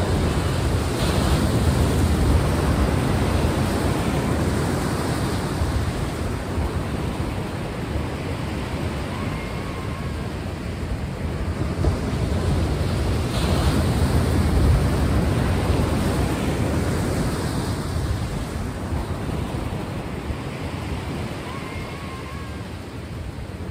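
Sea surf: waves washing and breaking in a steady wash, swelling twice, a little after the start and about halfway through.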